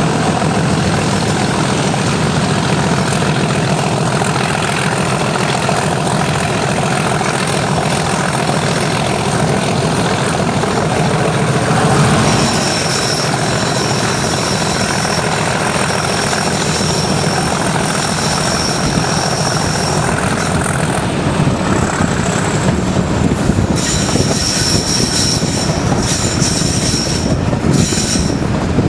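Train of passenger coaches hauled by a Class 37 diesel locomotive running at speed, heard from an open coach window: a steady rumble, with high-pitched wheel flange squeal on curves in two spells, from about twelve to twenty seconds in and again near the end.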